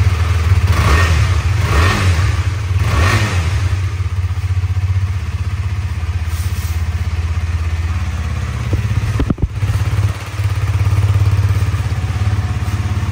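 KTM 250 Duke single-cylinder four-stroke engine running with its stock silencer, just after starting. It is blipped up a few times in the first few seconds, then settles to a steady idle.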